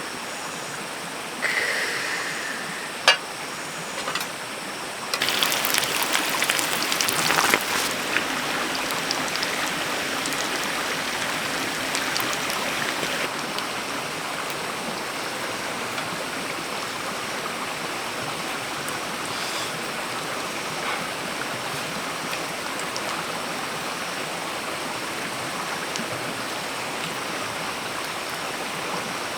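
Steady rushing of flowing water, with a few sharp knocks and a louder, crackling stretch from about five to thirteen seconds in.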